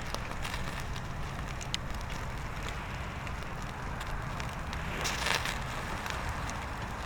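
Bonfire crackling, with scattered sharp pops over a steady low wind rumble. There is a brief louder rush of noise about five seconds in.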